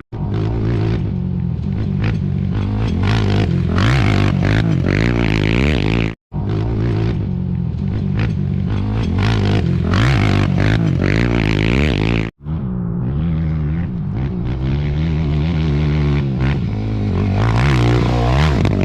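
Off-road race motorcycles passing at full throttle, engines revving up and down with gear changes, with dirt and gravel spray. The sound breaks off sharply twice, about six and twelve seconds in.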